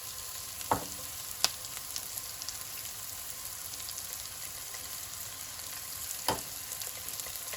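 Thinly sliced onion frying in oil over a high flame: a steady sizzle, with a few sharp clicks, once near the start, again a moment later, and once more near the end.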